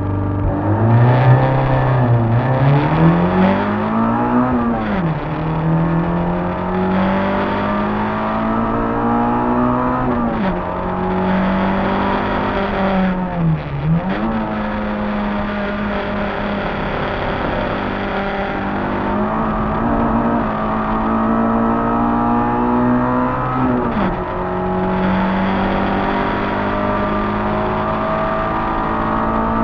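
Peugeot 106 rally car's 1.3-litre four-cylinder engine, heard from inside the cabin, held at steady revs for about a second and then pulling away hard. The note climbs under full throttle and drops back sharply at each gear change, several times, before running on at high revs.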